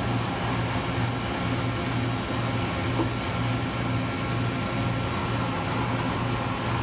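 Steady machinery hum with a low tone that pulses in an even rhythm, a little under a second apart, over fainter steady tones.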